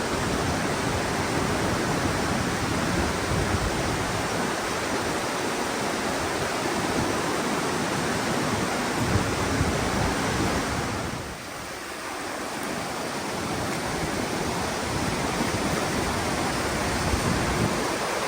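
Rushing water of a mountain stream, a steady loud rush that dips briefly about two-thirds of the way through.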